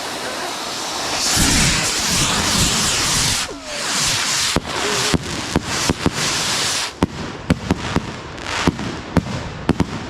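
Fireworks going off. A loud rushing hiss starts about a second in, with a few sharp cracks in it. From about seven seconds, a quick run of about a dozen sharp bangs and cracks follows.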